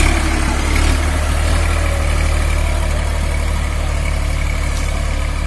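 Massey Ferguson 5245 DI tractor's diesel engine running steadily at low revs.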